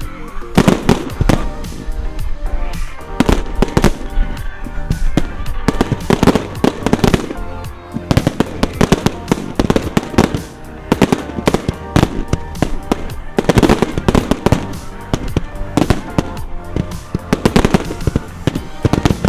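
Fireworks display: rapid bangs and crackling bursts going off one after another, with music playing underneath.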